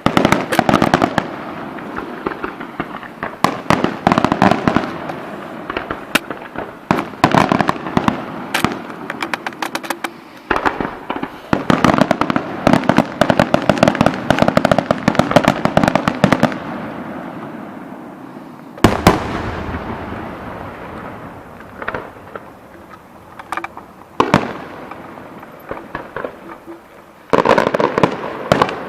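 Fireworks going off: rapid volleys of bangs and crackling, dense for the first half. A single loud boom comes about two-thirds in and rumbles away, followed by scattered reports and another dense flurry near the end.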